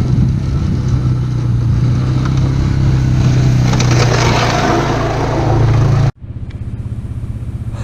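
Suzuki Vinson 500 ATV's single-cylinder engine running steadily while its front plow blade scrapes through snow. About six seconds in, the sound cuts off abruptly and gives way to the engine idling with an even, quieter pulse.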